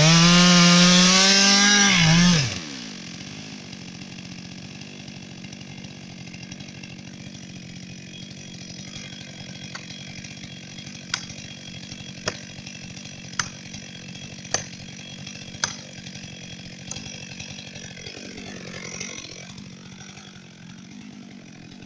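Chainsaw revved hard for about two seconds, then dropping back to a steady idle. Midway, five sharp knocks sound about a second apart over the idling saw.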